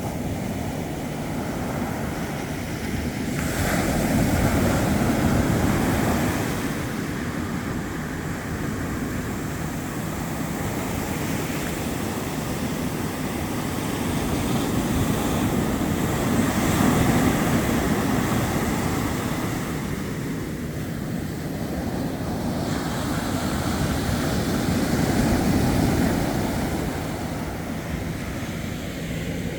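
Ocean surf breaking and washing ashore, swelling louder and falling back every ten seconds or so, with wind on the microphone.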